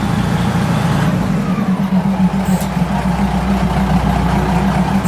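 Diesel train engine running steadily at close range, a low hum and rumble as the train creeps along the track, with a brief high click about halfway through.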